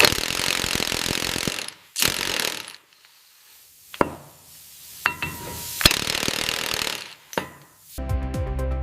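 Power tool hammering rapidly against rusted metal in three bursts, with short pauses and a sharp metallic click between them. Music starts near the end.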